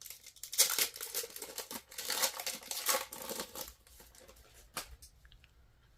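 A trading card pack's wrapper crinkling as it is torn open and handled, for about three seconds, then quieter handling with a single click near the end.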